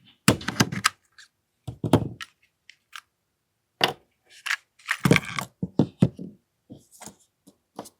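Hands working a part out of a disassembled AAP-01 airsoft pistol: irregular clicks, knocks and scrapes of small gun parts, in several short clusters.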